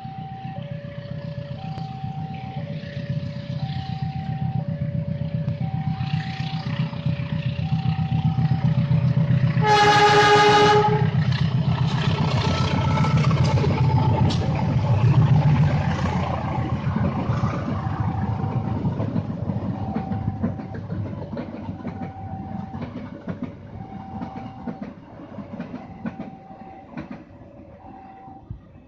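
Railway level-crossing signal sounding in alternating high and low tones, about one a second, while a train passes. A short horn blast comes about ten seconds in, followed by the rumble and clatter of the train, which fades toward the end.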